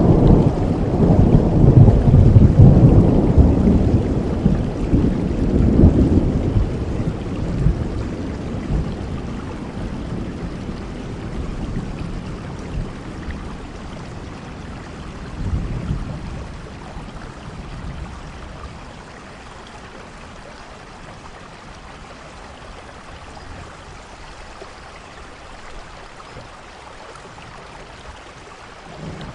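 Thunderstorm with steady rain. A long, deep roll of thunder fills the first several seconds and dies away, a shorter rumble comes at about sixteen seconds, and then the rain hiss continues quietly on its own.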